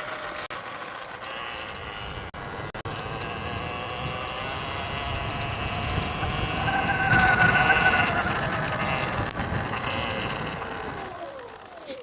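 Electric dirt bike motor whining under way over a rushing noise. The whine grows louder about seven seconds in, then falls in pitch and fades near the end.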